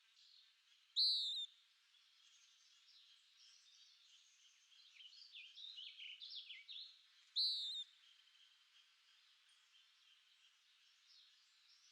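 Birds calling: two loud, short calls about six seconds apart, with a quicker run of softer chirps between them, over faint twittering from other birds.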